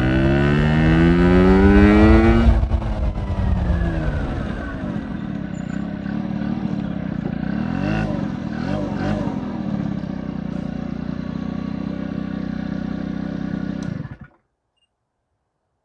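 Honda Spree scooter's small two-stroke engine with an S23 aftermarket exhaust, revving up with a steadily rising pitch for about two and a half seconds. The pitch then drops sharply and settles into steady running with small wavers in revs. The sound cuts off abruptly near the end.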